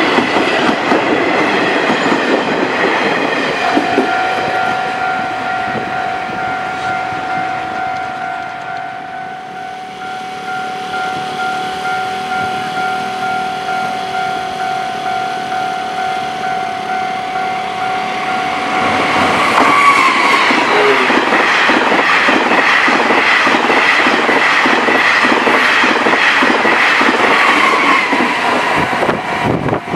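Passenger carriages of a Chu-Kuang express passing over a level crossing with clickety-clack wheel beats, fading away. A level crossing warning signal sounds in a steady pulsing rhythm. From about twenty seconds in, a TEMU2000 Puyuma tilting electric train passes close by, loud, with rapid wheel beats over the rail joints.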